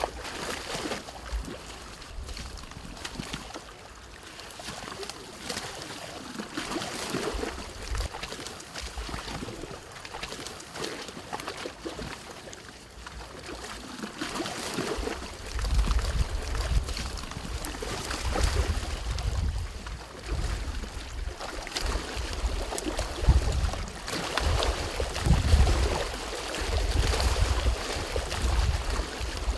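Water moving and splashing, with bursts of low rumble in the second half.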